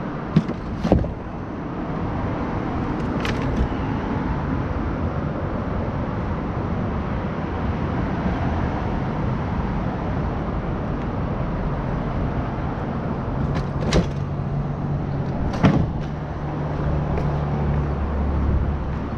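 A few sharp clicks and knocks of things being handled over a steady outdoor rumble. A low steady hum, like a distant engine, comes in about two-thirds of the way through.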